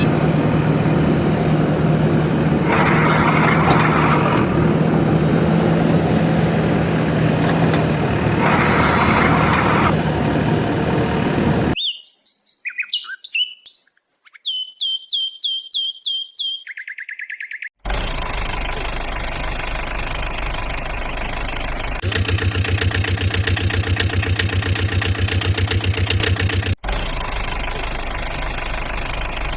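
Heavy vehicle engine sounds, with a six-second stretch of bird chirps in the middle: quick rising and falling chirps, then a run of repeated chirps. After the chirps the engine returns as a steady, rapidly pulsing run that gets louder for a few seconds.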